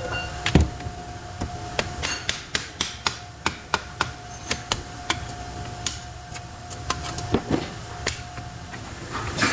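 Tools tapping and knocking on the metal parts of a dynamo during disassembly: a run of sharp taps and clicks, a few a second, with one heavier knock about half a second in. A faint steady hum sits underneath.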